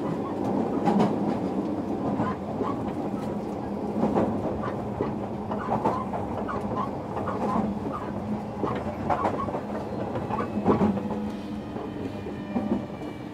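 JR Kyushu 305 series electric train heard from inside a motor car as it runs into a station, the wheels clicking over rail joints under a steady low hum from the running gear. Near the end the hum changes and higher steady tones come in as the train nears its stop.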